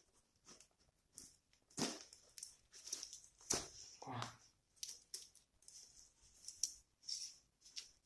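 A length of iron wire being pulled from its coil and handled: irregular scraping rustles and light clicks, with a few louder knocks about two and four seconds in.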